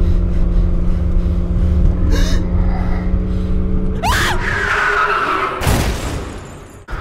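Car engine running with a steady low rumble, heard from inside the cabin. About four seconds in, a sudden high shriek and a rush of noise break in, followed by a loud hit as the car lurches, then the sound fades away.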